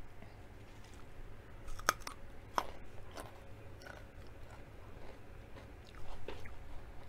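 Crisp crunches of a raw baby carrot being bitten and chewed, the loudest two a little under a second apart about two seconds in, then softer chewing crunches.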